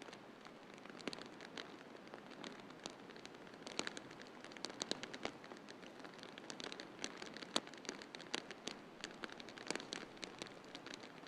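Wood fire crackling in a fireplace: irregular sharp pops and snaps, several a second, some louder than others, over a steady soft hiss.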